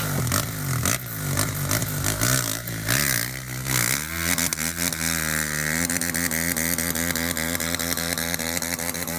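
Porsche 911 GT3 RS engine running. Its pitch swings down and up about three to four seconds in, then holds steady.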